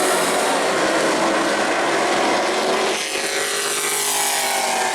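Race trucks' engines running hard on a short asphalt oval. About three seconds in the level dips and the pitch shifts as the engine note changes.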